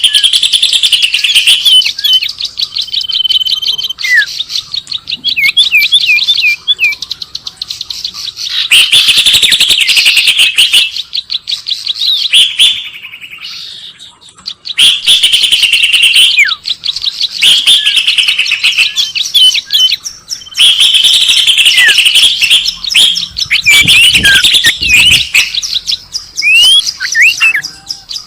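Recorded songbird chirping used as a bird lure: loud, rapid chirps and trills with quick rising and falling whistled notes, coming in bursts of a few seconds with short pauses between them.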